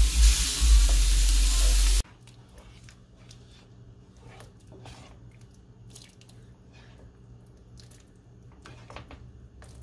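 Raw chicken pieces sizzling loudly in hot oil in a frying pan, cutting off abruptly about two seconds in. After that a pot of chicken curry simmers quietly, with soft scattered pops and clicks.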